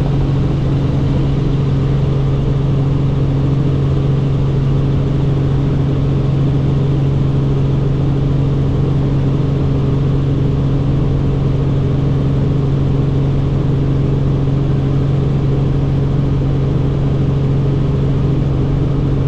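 Helicopter in flight: a steady drone of engine and rotor, with a strong low hum and several steady higher tones, unchanging throughout.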